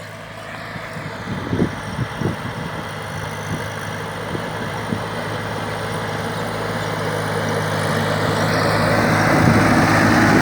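Massey Ferguson 6028 28 hp tractor's diesel engine running steadily, getting steadily louder throughout, with a few light knocks in the first couple of seconds.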